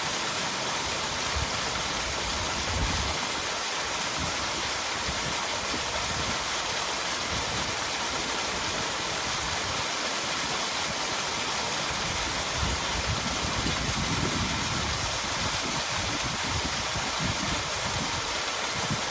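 Small waterfall splashing and rushing, a steady, even sound of falling water.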